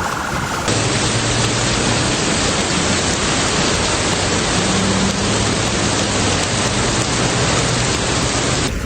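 Loud, steady rush of water, cutting in about a second in, with a faint low hum underneath.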